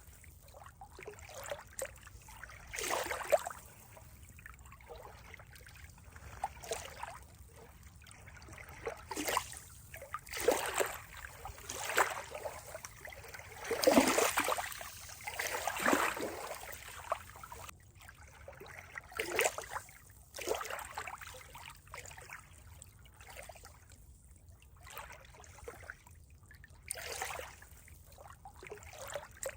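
Water trickling and gurgling in irregular swells, each a second or so long, loudest about halfway through.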